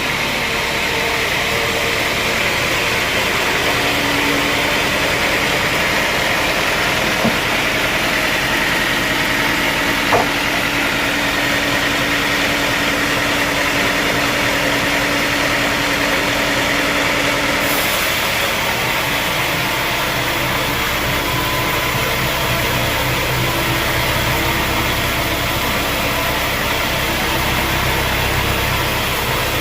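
Sawmill machinery running steadily, with an engine-like hum and a constant hiss; the sound shifts slightly a little over halfway through.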